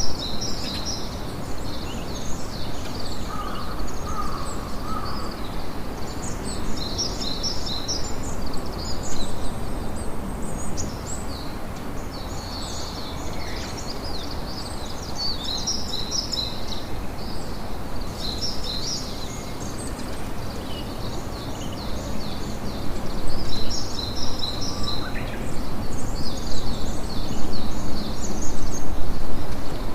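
Campfire crackling steadily, with birds chirping in repeated high bursts over it and a short lower call a few seconds in. The crackling grows louder near the end.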